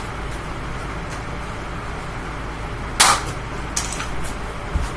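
Amazon Basics box fan running steadily with its grille off. About three seconds in, an object thrown into it is struck by the spinning blades with a sharp clatter, followed by two lighter ticks and a brief low thump near the end.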